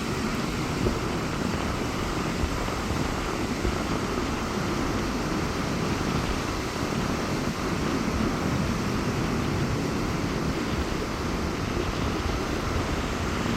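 Rough sea surf breaking and washing up a beach in strong wind: a steady, even rush of waves.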